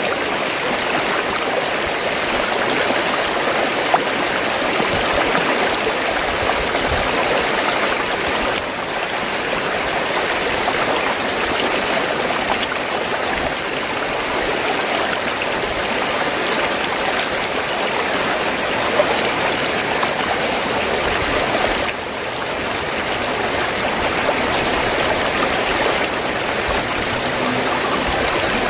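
Fast-flowing stream of water gurgling and rushing steadily, dipping in level briefly twice.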